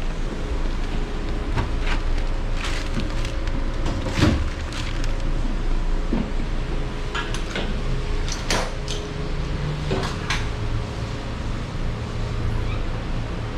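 A steady low engine rumble with many scattered clicks and knocks over it, the loudest knock about four seconds in.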